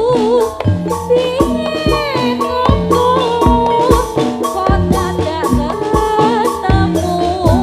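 Jathilan music played live, with regular drum strokes under a wavering held melody line and a downward-gliding note about two seconds in.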